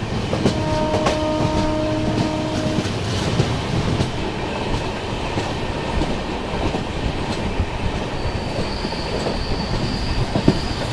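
Long passenger train running, heard from an open coach doorway: a steady rumble with wheels clattering over the rail joints. About half a second in a train horn sounds one held note for about two seconds, and from about eight seconds in a faint high wheel squeal comes in as the train rounds the curve.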